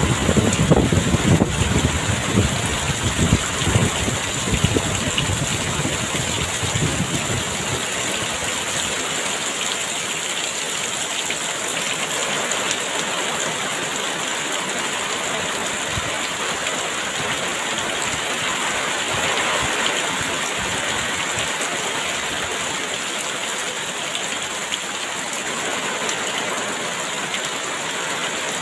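Very heavy rain pouring down steadily, with a low gusty rumble of strong wind in the first several seconds that then dies back.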